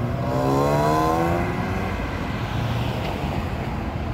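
Air-cooled Porsche 911 Turbo flat-six accelerating away, its revs rising in pitch for just over a second before fading into the distance, over a steady low rumble of other cars' engines.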